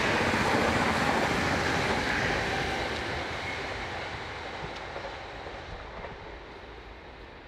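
Two coupled four-car Stadler FLIRT 3 electric multiple units rolling past at speed and then receding. The steady rush of wheels on rail fades away, losing its higher tones first.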